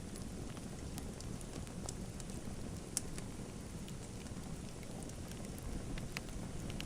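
Wood fire in a fireplace crackling: scattered sharp pops and snaps, one louder snap about three seconds in, over a steady low rumble.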